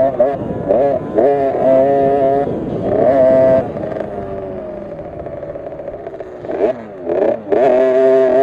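50cc two-stroke KTM SX50 minibike engine being raced, revving high and easing off in quick repeated surges. It drops to a lower, quieter run about midway, then revs up high again near the end.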